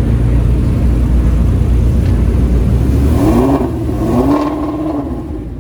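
Car engine rumbling, then revving up twice with a rising pitch about three seconds in before easing off.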